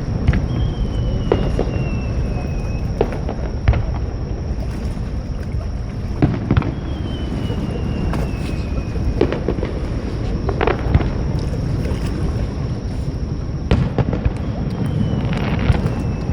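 Fireworks bursting: sharp booms and cracks at uneven intervals over a steady low rumble. A high whistle falls slowly in pitch three times, each lasting about two seconds.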